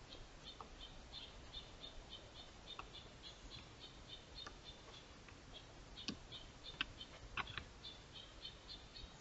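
Faint, rapid series of short high-pitched chirps, about four to five a second, from a small bird, with a few soft clicks in the second half.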